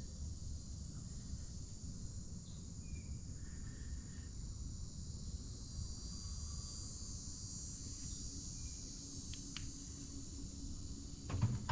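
Background insect chorus of crickets chirping steadily over a low hum, with a couple of faint ticks near the end.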